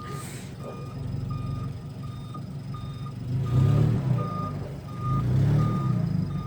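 Vehicle reversing alarm beeping steadily, about one and a half beeps a second, with two louder low rumbles around the middle and near the end.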